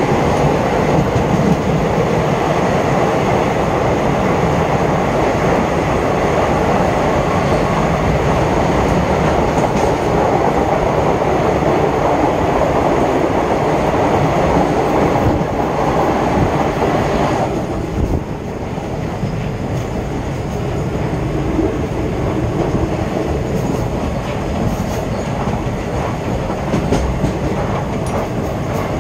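Passenger train running through a tunnel, heard from inside the coach: a loud, steady rumble and rattle of wheels on the track with a clickety-clack. About two-thirds of the way through, the noise drops sharply and thins.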